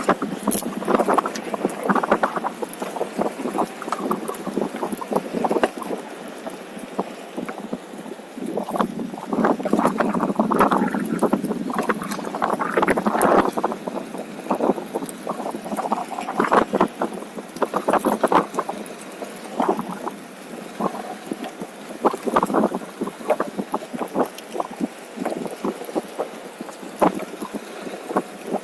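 Wind buffeting the microphone and tyre rolling noise from a OneWheel riding along a trail, swelling and fading unevenly, with scattered small clicks and knocks from the ride.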